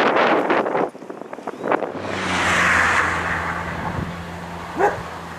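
Wind gusting on the microphone, then about two seconds in the steady rush and low hum of a landing jet airliner's engines, easing off towards the end.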